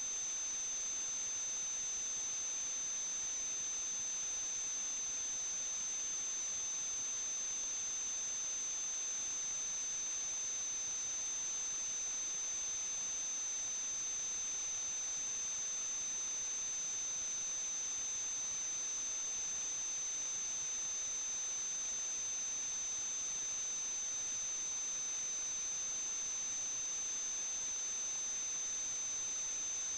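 Steady hiss with two constant high-pitched whines, unchanging throughout, with no other events.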